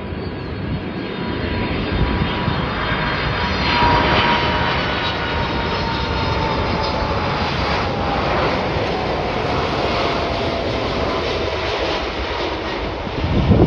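Boeing 747-400 freighter's four jet engines passing on arrival, a loud steady rush with a whine that slowly falls in pitch, loudest a few seconds in. A brief louder low rumble comes near the end.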